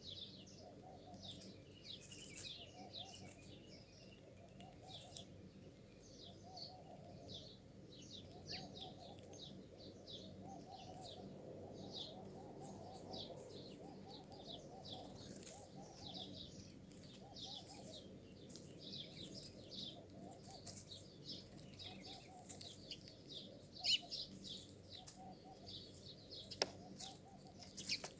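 A flock of small birds chirping continuously, many short high chirps overlapping, over a low pulsing sound, with two sharp ticks near the end.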